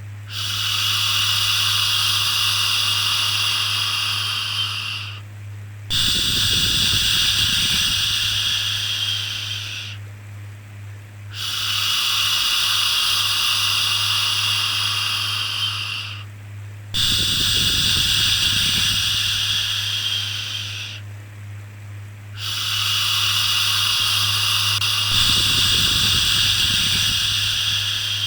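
Shushing "shhh" for soothing a baby, repeated in long drawn-out shushes of about four to five seconds with short breaks between them, five in all, over a steady low hum.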